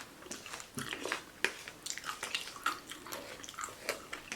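A person chewing a mouthful of vegan veggie taco close to the microphone: irregular soft, wet mouth clicks and smacks.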